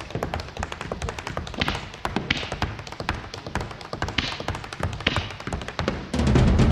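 Fireworks crackling and popping in dense, irregular clicks, with a few louder bangs and hissing streaks, over quieter music. Near the end, louder music with a heavy bass comes back in.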